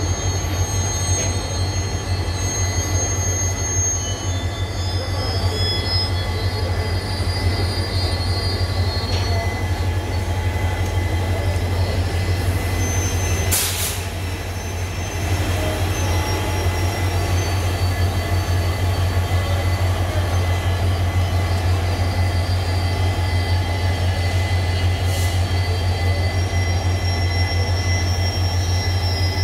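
Steady low hum of a standing passenger train, with thin high-pitched tones over it. A short hiss comes about 13 seconds in, and a fainter one near 25 seconds.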